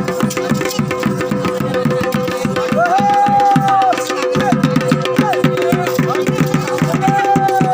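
Chholiya folk dance music: fast, dense drumming under a steady held drone note, with a wind melody sliding between long notes above it.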